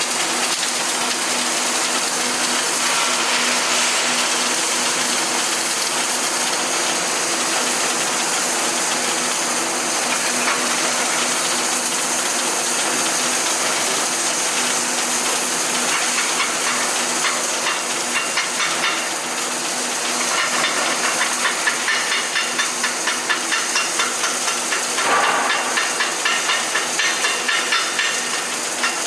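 Arc welding: a steady, loud hiss from the welding arc, which turns into a fast, even pulsing in the last third.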